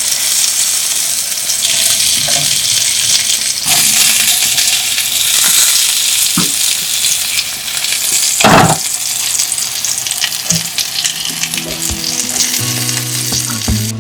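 Food frying and sizzling steadily in a hot pan, with scattered small clicks and one louder knock or scrape about eight and a half seconds in. Background music comes in near the end.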